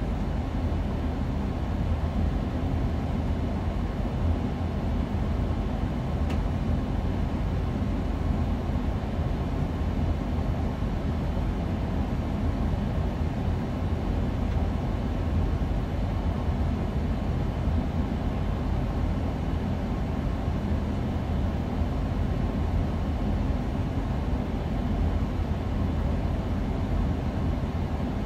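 Steady low hum of a passenger train standing at a halt, heard from inside the cab, with one faint click about six seconds in.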